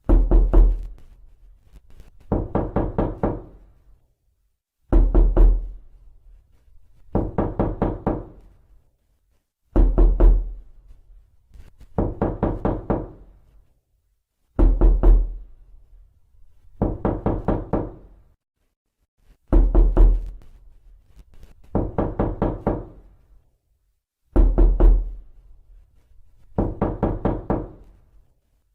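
Knocking on a door in quick runs of about five or six knocks, a new run roughly every two and a half seconds, every other run heavier and deeper.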